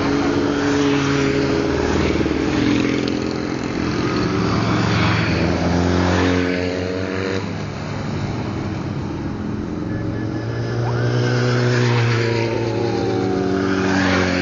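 A stream of motorcycles riding past one after another, several engines at once, the sound swelling and the engine notes shifting in pitch each time another bike goes by.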